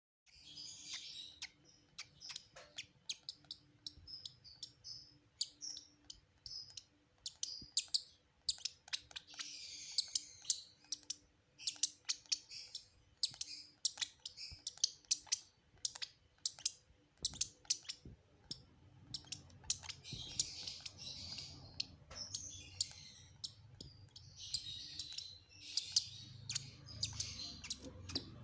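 Lovebird chicks giving rapid, high begging chirps in repeated bouts as they are fed, with many sharp clicks throughout.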